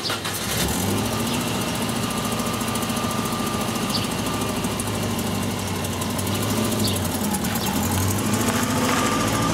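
2000 Saturn SL's four-cylinder engine running steadily after a tune-up with new spark plugs and a new PCV valve. Its note rises and grows louder near the end as the car pulls forward.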